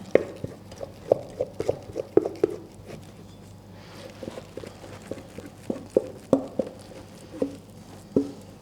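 A wooden spoon knocking and scraping against a bowl as thick brownie batter is spooned out into a baking tray: irregular, hollow-sounding taps, in clusters.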